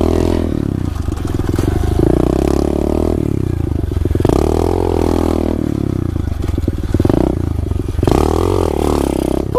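SSR 125 pit bike's single-cylinder four-stroke engine under riding load, its note rising and falling several times as the rider throttles up and eases off.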